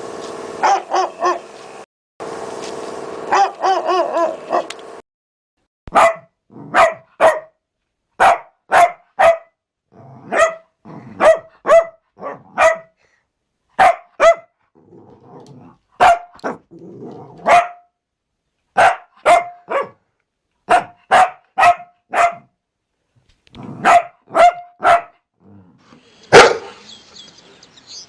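Dogs barking, cut together from separate recordings. In the first seconds short barks come over a steady hum. Then one dog gives clean barks in quick sets of two or three, with silences between. Near the end a harsher, busier bout of barking begins.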